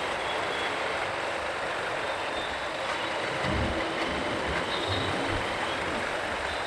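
Riding on a motorcycle: a steady rush of wind and road noise, with low thumps of wind buffeting the microphone, the strongest about halfway through.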